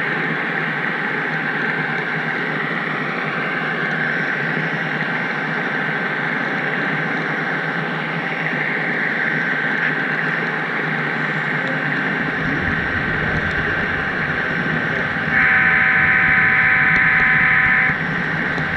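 HO-scale model train rolling steadily along the track, a continuous whirring rumble, with one steady horn blast of about two and a half seconds near the end.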